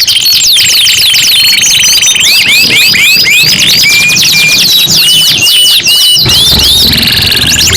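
Domestic canaries singing in fast, overlapping song: a rapid buzzing roll about half a second in, then runs of quick repeated chirps that sweep up and down in pitch.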